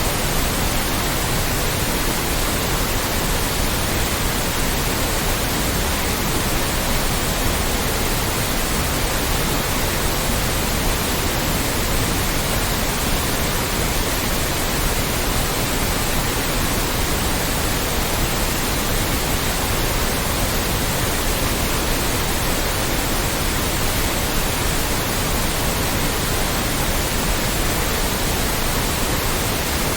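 Loud, steady white noise: an even, unbroken hiss across the whole range from deep to high, with no change or events.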